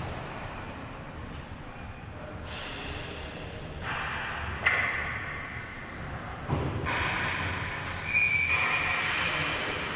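Sounds of play in a game: several sharp knocks, at about four, five, six and a half and eight seconds in, and short high-pitched squeaks, over a steady hall noise.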